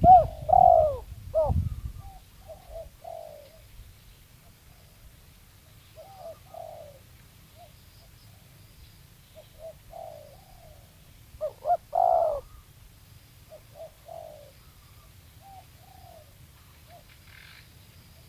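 Spotted dove cooing: a string of short multi-note coo phrases, the loudest right at the start and again about twelve seconds in, with fainter phrases between. A low rumble sits under the first two seconds.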